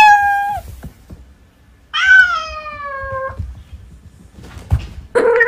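Domestic cat meowing: a short meow at the start, then a longer meow about two seconds in that falls in pitch, and another call starting near the end.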